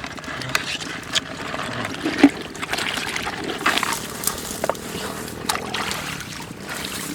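Shallow water splashing and trickling, broken by scattered short clicks and knocks.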